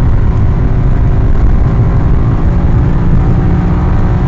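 BMW M6's V10 engine running loudly at fairly steady revs, heard from inside the car, mixed with tyre and road noise.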